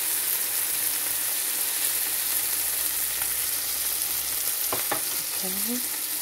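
Chopped onions, tomato and other vegetables sizzling steadily in oil in a frying pan, stirred with a wooden spatula, with a couple of light clicks about five seconds in.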